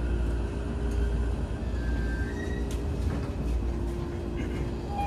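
Interior running sound of an E231 series commuter train rolling slowly into a station and braking toward a stop: a steady low rumble with brief faint high whining tones about two seconds in.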